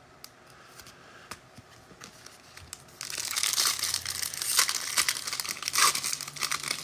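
A trading-card pack wrapper being torn open and crinkled, starting about three seconds in after a few faint clicks.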